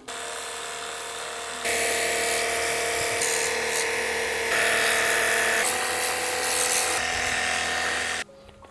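A small motor running steadily with a whirring hum. It starts and stops abruptly, gets louder after about two seconds, and its tone shifts a few times.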